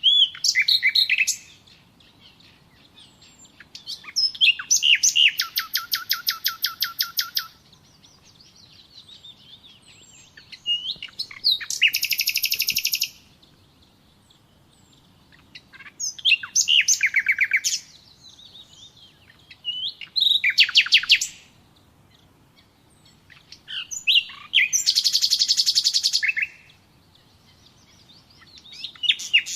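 A songbird singing the same kind of phrase over and over. Each song is one to three seconds of rapid, repeated high notes, some falling in pitch, and a new one comes every four or five seconds with quiet in between.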